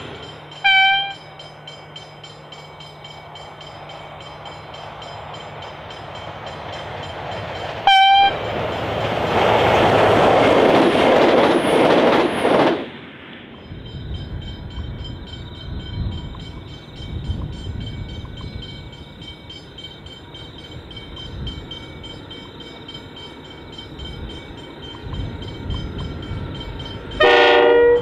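A train horn gives two short single-note toots a few seconds apart, followed by the loud noise of the train passing, which cuts off abruptly. Then a diesel freight train rumbles on its approach, and its locomotive sounds a loud multi-note horn chord near the end.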